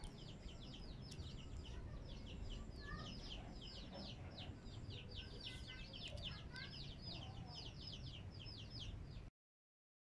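Birds chirping in a fast, continuous series of short high notes, with a few fainter lower calls mixed in. The sound cuts off abruptly near the end.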